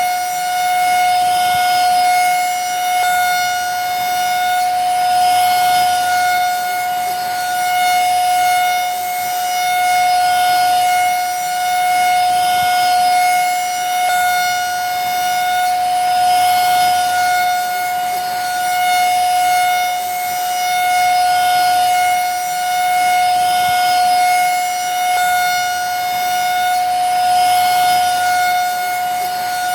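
Vacuum cleaner running steadily: a high, constant motor whine over a rush of air, swelling and easing slightly every couple of seconds.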